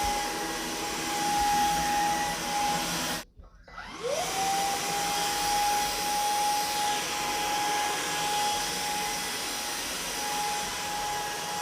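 Samsung Jet 75 cordless stick vacuum running with a steady high whine over a rush of air. About three seconds in it cuts out for under a second, then winds back up with a rising whine and runs on steadily.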